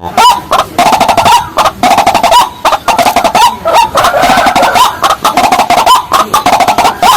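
Rails calling: a loud, fast run of clucking notes repeated many times a second, with short rising whoops about every 0.7 seconds.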